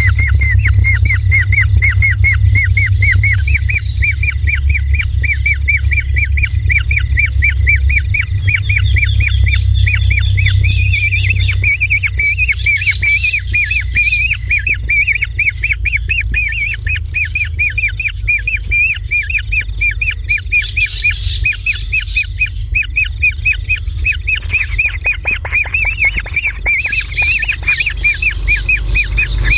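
Kingfisher calling in a fast, unbroken run of repeated chirps, over a steady high-pitched whine that breaks off briefly about halfway, and a low rumble.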